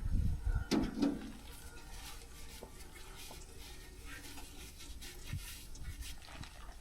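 Engine oil from a Volvo D13 running out of the oil pan's drain hole into a drain box. It pours louder in the first second, then settles to a faint, steady trickle.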